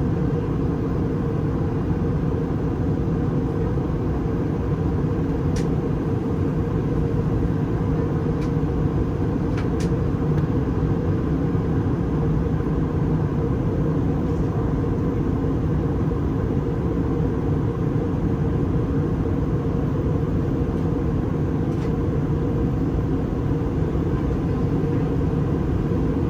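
Airbus A320 cabin noise in flight: a steady low rumble of airflow and engines, with a couple of faint clicks.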